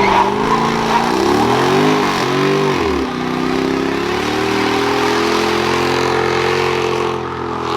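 Car engine revved: the pitch swings up and down about three times over the first few seconds, then is held at steady high revs for several seconds and eases off near the end.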